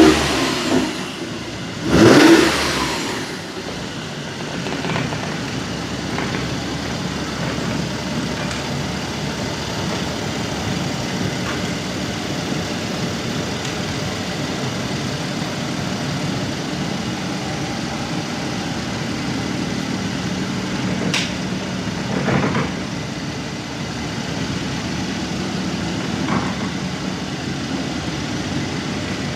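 Mercedes-AMG GLC 43's twin-turbo V6 engine idling, with one sharp throttle blip about two seconds in and a couple of small blips later on.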